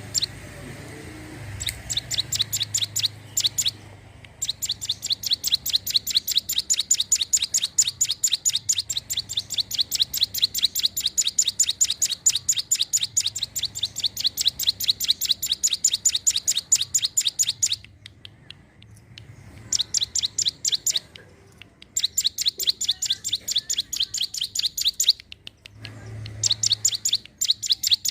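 Ciblek gunung (hill prinia) singing long runs of fast, evenly repeated high chips, about five a second, broken by short pauses.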